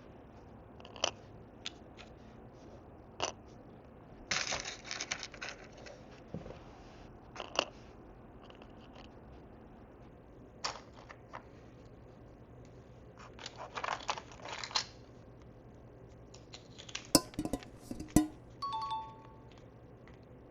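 Tiny plastic miniature food pieces and dishes being handled: scattered light clicks and taps, with two stretches of rustling, and a few sharper clicks near the end.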